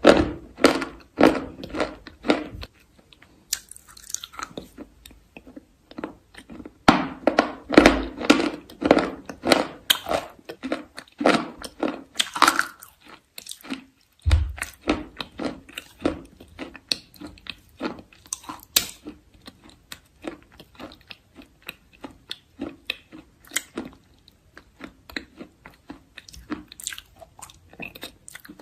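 Close-miked crunchy eating: a person biting and chewing something crisp, in rapid runs of crunches several a second with short pauses between bites.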